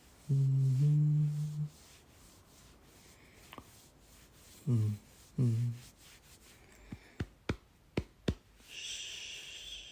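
A man's voice hums a two-part 'mm-hmm' near the start and two short hums about five seconds in. Then come five sharp clicks and a breathy hiss near the end.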